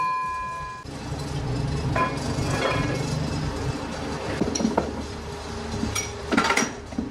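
Metal parts clanking and clinking in a metalworking shop. At the start a struck piece of steel rings with a clear tone that stops just under a second in, and irregular knocks and clinks follow, the loudest cluster near the end.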